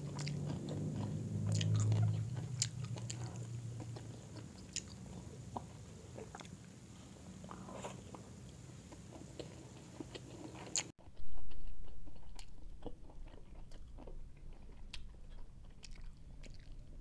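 Close-miked eating sounds: chewing and biting into grilled chicken eaten by hand, with scattered small clicks and smacks.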